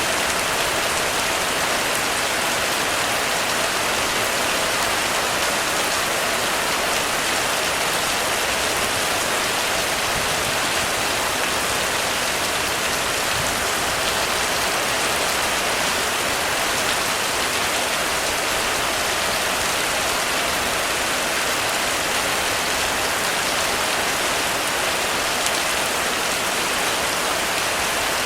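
Heavy rain falling steadily on a roof, a dense, even patter with no let-up.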